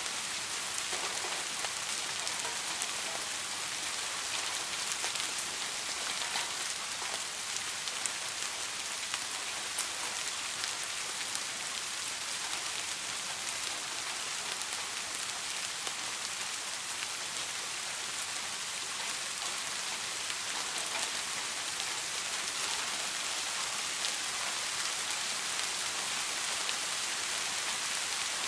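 Soft rain falling steadily: an even hiss with scattered faint ticks of individual drops.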